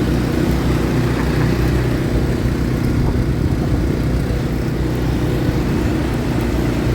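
ATV engine running at a steady throttle while being ridden, a continuous even engine drone.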